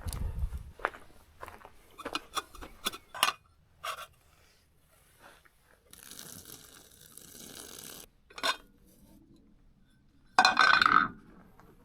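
Camp cookware and utensils being handled during cooking: a run of clinks, knocks and scrapes, an even hiss for about two seconds in the middle, and a loud, short rough noise near the end.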